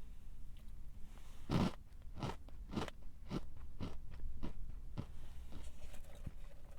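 Someone biting into and chewing a crunchy snack, close to the microphone: one loud bite about a second and a half in, then a steady run of crunches about two a second.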